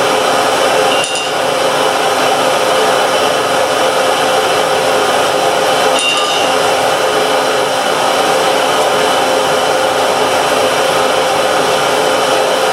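Steady rush of air-blown charcoal forge fire, with a light metallic clink about a second in and another about six seconds in.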